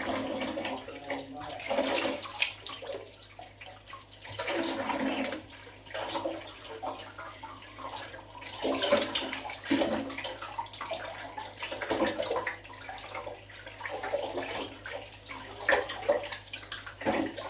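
Water splashing and sloshing in irregular bursts as beef tripe (matumbo) is washed by hand.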